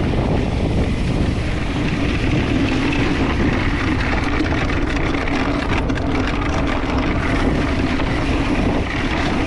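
Mountain bike riding along a dirt trail: a steady rush of wind over the microphone mixed with knobby tyres rolling on the dirt.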